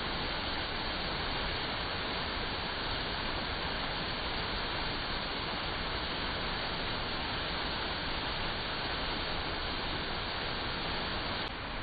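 Artificial waterfall: water falling steadily, a dense even rush, with a slight drop in level just before the end.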